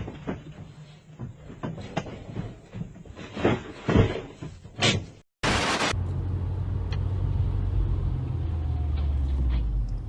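A series of sharp knocks and rattles, then a brief loud noise burst about five and a half seconds in. After the burst comes the steady low rumble of a vehicle running, as heard from a dashcam.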